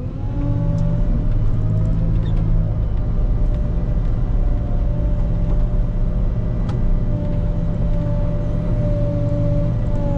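Volvo L90H wheel loader's diesel engine running steadily at high revs under load, a low drone with a steady whine on top.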